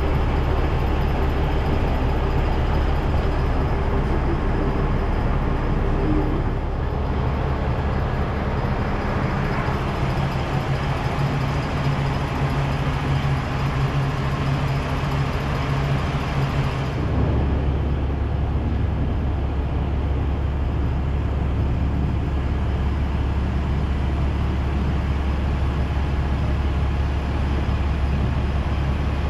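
Nagara River Railway diesel railcar running, a steady low engine drone under track and running noise, the engine note shifting about a quarter of the way in and again a little past halfway.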